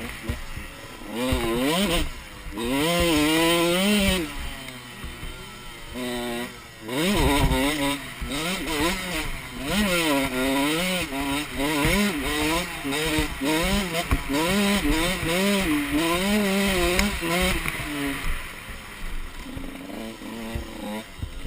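Motocross dirt bike engine revving up and falling back over and over as the throttle is worked, with a steady rush of wind noise.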